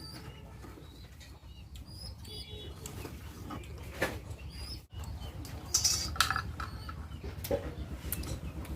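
Small birds chirping, short high calls repeated throughout, with a few sharp knocks or rustles, the loudest about six seconds in, over a steady low hum.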